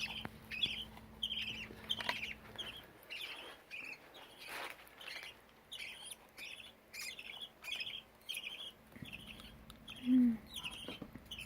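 Budgerigar chick giving short, high begging chirps over and over, just under two a second, while being hand-fed.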